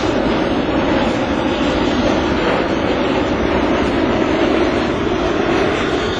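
Airbus A380 jet airliner's engines, a loud, steady rumble with no breaks.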